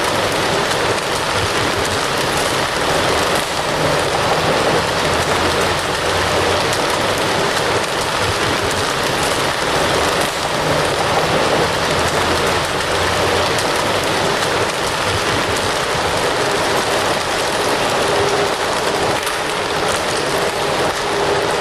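Wood fire crackling with a dense, continuous crackle and hiss that stays steady throughout.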